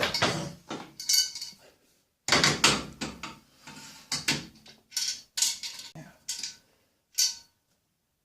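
Metal parts and hand tools being handled: an irregular run of clinks and clattering, the sharper knocks ringing briefly.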